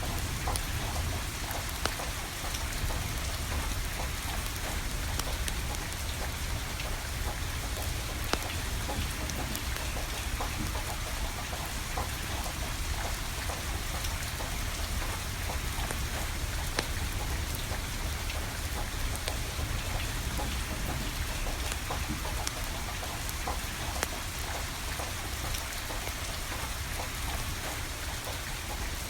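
Steady rain falling, with scattered sharp crackles and pops from a burning wood fire and a low rumble underneath.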